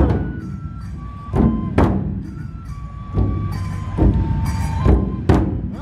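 Matsue dō festival drum music: several heavy, irregularly spaced drum strokes under a bamboo flute holding long notes.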